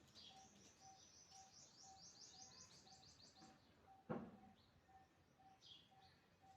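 Faint parrot chirping: a fast run of short, high chirps for the first three seconds or so, then a few short falling calls near the end. A single knock about four seconds in is the loudest sound.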